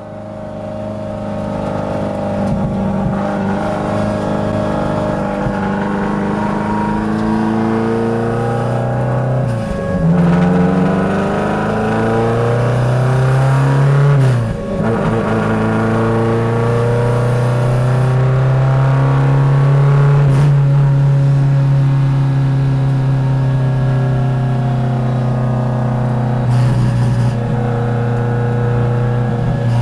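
Subaru STi race car engine heard from inside the cabin, pulling hard and rising in pitch through the gears. There are two quick upshifts, about ten seconds in and again about four seconds later, where the pitch drops and climbs again. It then holds high revs steadily at speed.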